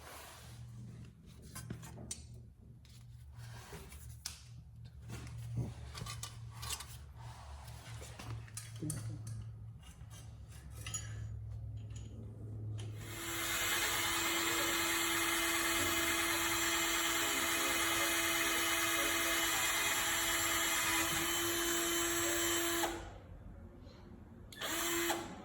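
Power drill working on the truck's wheel-light bracket: first light clicks and handling over a low hum, then the drill runs steadily for about ten seconds, stops, and gives a short burst near the end.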